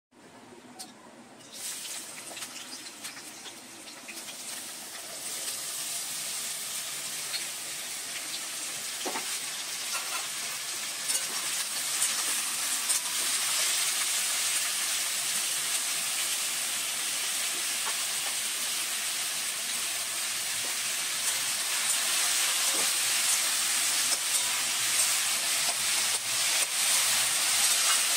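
Chopped vegetables sizzling as they fry in hot oil in a steel wok, with occasional clicks of a spatula stirring them against the pan. The sizzle starts about a second and a half in and grows steadily louder.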